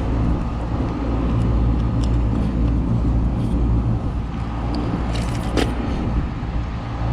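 Trane package air-conditioning unit running steadily, its compressor and condenser fan giving a low drone, with a few light clicks and rattles about five seconds in.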